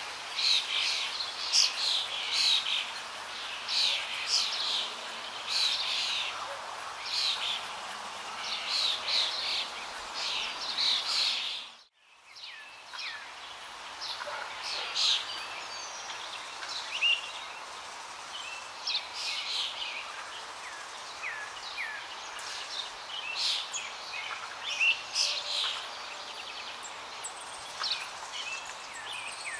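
Birdsong: many short chirps and trills from several birds over a steady outdoor hiss. The sound fades out briefly about twelve seconds in, then comes back.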